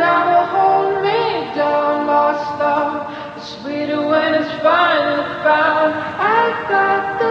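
Music: a slow melody of layered sung voices with held, wavering notes.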